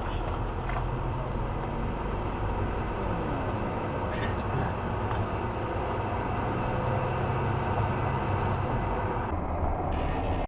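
Steady road and engine noise of a car driving, as picked up by a dashcam.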